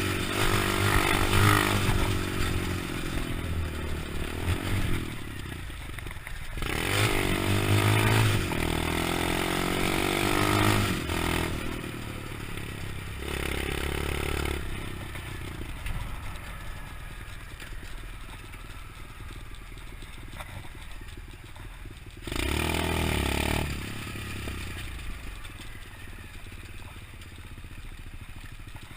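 125cc pit bike engine revving up and down as it is ridden, louder in the first half and quieter later, with some rattling and scraping.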